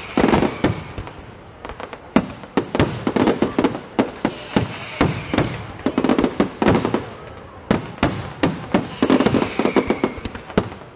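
Fireworks display: a rapid run of bangs and crackling pops from bursting shells, coming in dense volleys about every three seconds.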